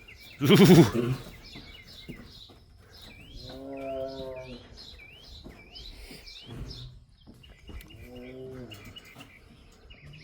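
Small birds chirping repeatedly in a quick, regular series, while a larger animal gives three drawn-out lowing calls that rise and fall. A short loud noise comes about half a second in.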